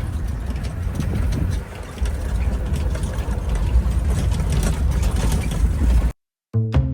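Steady low rumble of a safari vehicle driving, with a short dip a little under two seconds in. It cuts off abruptly just after six seconds, and music with drums starts just before the end.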